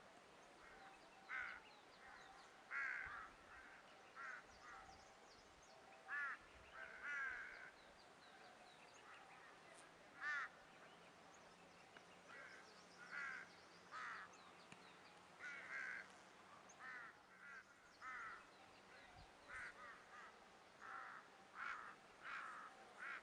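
A bird calling over and over in short calls, about one a second at uneven gaps, sometimes two close together.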